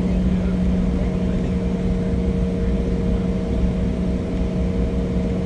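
Steady cabin drone of an Embraer E175 airliner on the ground after landing: engine and air-system hum with a constant low tone and a couple of fainter higher tones over a rumble.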